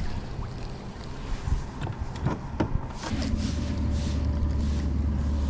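A few knocks and clatter in a fishing boat, then about three seconds in a steady low motor hum starts up and keeps running, from the boat's motor.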